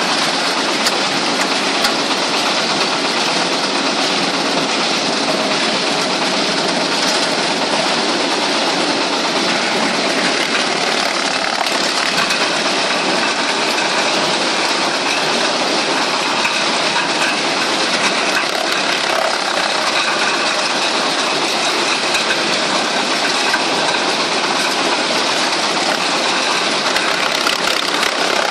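Wood chipper running steadily, an even, dense machine noise that holds without let-up.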